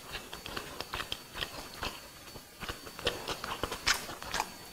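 A person chewing a mouthful of biryani close to a clip-on mic: irregular small wet mouth clicks and smacks.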